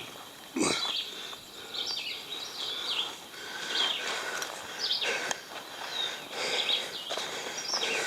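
Footsteps crunching along a forest portage trail, irregular and about one a second, in shoes whose soles are coming unglued. Small birds chirp in the background.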